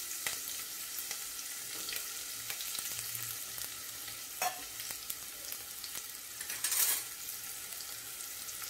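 Diced raw mango sizzling in hot oil with mustard seeds, cumin and curry leaves in a steel pressure cooker: a steady frying hiss with a sharp crackle about halfway and a louder burst of sizzle near the end.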